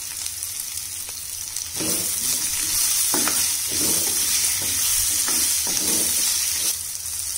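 Sliced onion, garlic and coriander leaves sizzling in hot oil in a nonstick pan. From about two seconds in, a wooden spatula stirs and scrapes the pan in several strokes, and the sizzle grows louder while it stirs.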